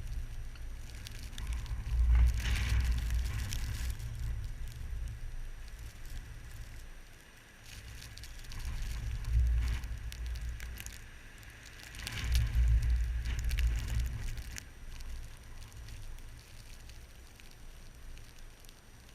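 Blizzard wind blowing in gusts, rumbling on the microphone three times as it swells and dies away, with a fine crackling and ticking throughout.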